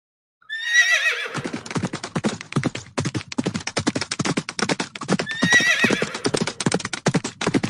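Horse whinnying twice, once about half a second in and again about five and a half seconds in, over a fast, continuous clip-clop of hooves.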